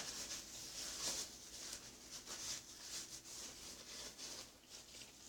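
Close-up chewing of a mouthful of steak sandwich on ciabatta bread: faint, irregular mouth noises.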